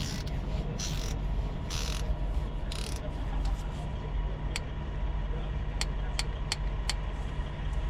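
Ratchet wrench clicking while an injector fastener on a common-rail diesel engine is tightened to torque: a few short rasping runs of the pawl, then single sharp clicks about three a second.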